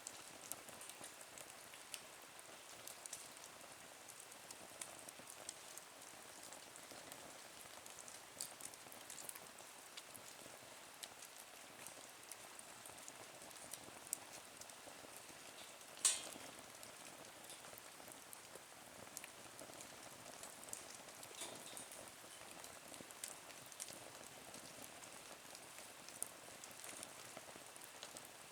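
Quiet wood fire burning in a small camp stove, crackling with a light hiss and frequent small pops; one sharp, louder pop about sixteen seconds in.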